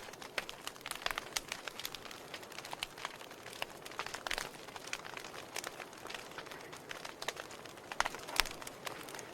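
Wood fire in a fireplace crackling, with irregular snaps and pops from the burning logs over a soft hiss, the two loudest pops near the end.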